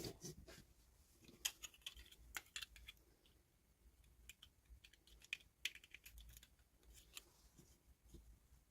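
Faint, irregular clicks and taps of small plastic toy pieces and packaging being handled, coming in short clusters.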